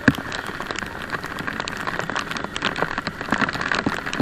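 Rain falling, with many individual raindrops striking close to the microphone as sharp ticks and a louder knock right at the start.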